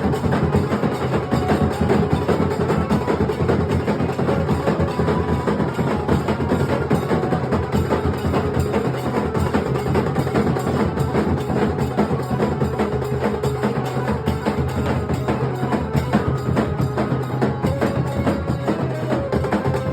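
Nasik dhol band drumming: big barrel drums and sharp, cracking higher drums playing a dense, fast, driving rhythm without a break.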